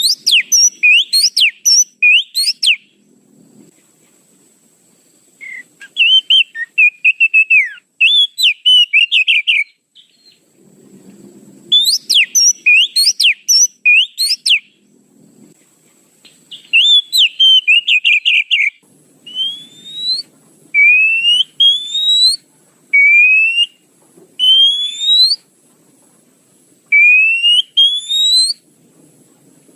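Oriental magpie-robin (kacer) song used as a bird-trapping lure. It comes as short bursts of rapid chattering, trilled phrases with pauses between them, then changes to a string of rising whistled notes repeated every second or two. A faint steady high tone sits under it.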